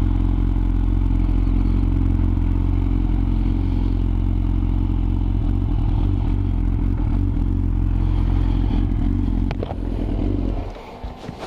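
Yamaha R6's inline-four engine running steadily at low revs with a misfire, caused by ignition coils not pressed fully home. The engine sound cuts off about ten seconds in, leaving a few clicks.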